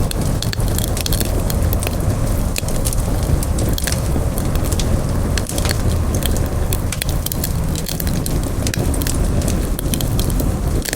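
Campfire burning, its wood crackling with frequent sharp pops and snaps over a steady low rumble of the flames.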